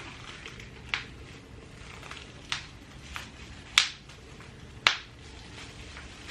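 Handling noise: a few short, sharp clicks and crackles, the two loudest about a second apart just past the middle, over a low room hum.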